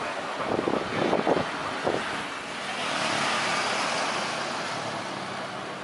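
Jet airliner engine noise: a broad rushing sound that swells about halfway through and then eases off, after a few brief low thumps at the start.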